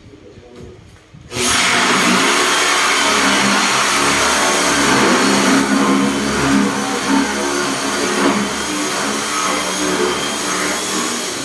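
Electric drill boring a cup hole for a concealed hinge in a cabinet. It starts suddenly about a second in and runs steadily under load.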